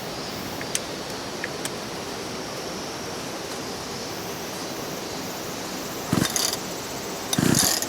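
Steady rushing of a nearby river, with a few faint clicks and two short rasping bursts near the end.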